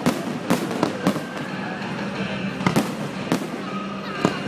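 Fireworks display: aerial shells bursting in a string of sharp bangs, about seven, irregularly spaced, with music playing underneath.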